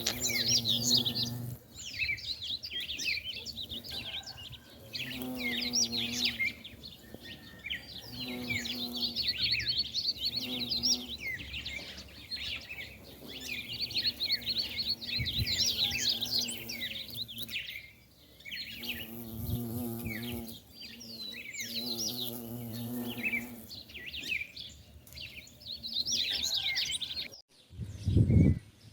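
Bumblebees buzzing among wisteria blossoms, the low hum rising and fading in passes of a second or two as they fly close, over continuous chirping birdsong. Near the end the sound cuts out briefly.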